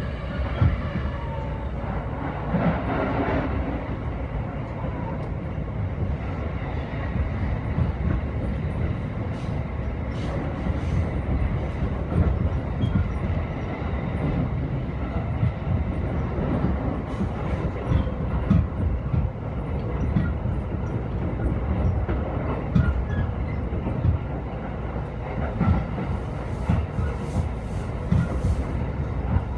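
JR East E233-series electric commuter train running at speed, heard from inside the car: a steady low rumble of wheels on rail with irregular louder bumps. Near the end a brighter hiss comes in as another train passes close alongside.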